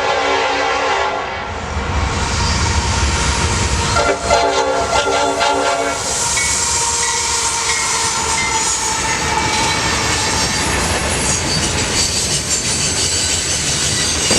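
Diesel freight locomotive horn blowing a foul-sounding chord, one blast ending about a second in and a second blast from about four to six seconds, followed by the steady rumble and clatter of the freight train's cars passing.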